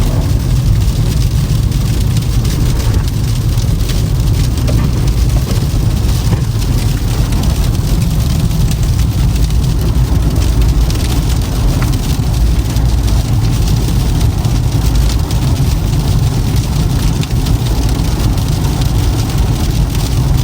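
Toyota Camry driving on a snowy, icy road: steady low road and tyre rumble with engine hum.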